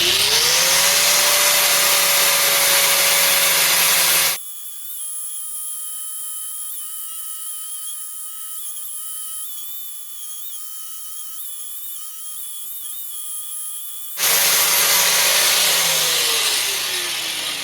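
Angle grinder with a flap disc spinning up and grinding steel: a loud grinding hiss over a steady motor whine. It cuts off suddenly after about four seconds, leaving a quieter stretch with a faint steady high whine. The grinding starts again about ten seconds later, and near the end the motor winds down with a falling whine.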